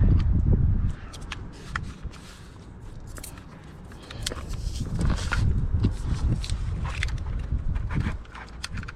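Handling noise while mastic sealing tape is unrolled and laid onto the back of a caravan water inlet housing: scattered clicks and light scrapes over a low rumble, loudest in the first second and again from about four seconds in.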